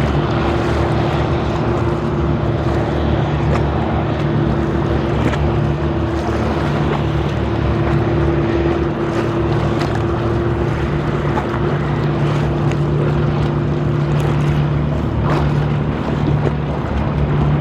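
A boat's engine running steadily on the river, its even drone laid over the wash of water and wind; the higher tone in the drone drops out near the end.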